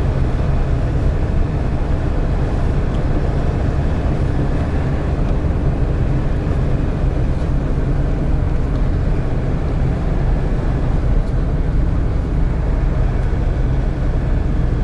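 A GAZelle Next van driving at steady speed: a constant engine drone with road and wind noise, heard from inside the cab.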